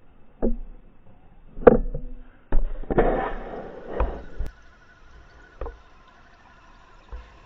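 A series of irregular knocks and thuds, about six, with a rough scraping noise after the third; a faint steady whine starts about halfway through.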